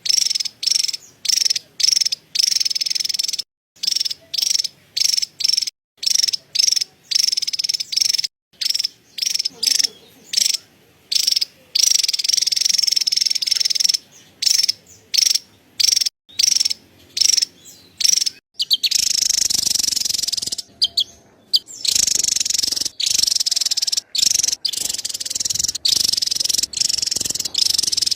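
Javan tesia chattering: rapid, dry, high-pitched calls in quick short bursts, a few each second, that run together into an almost unbroken chatter about two-thirds of the way through.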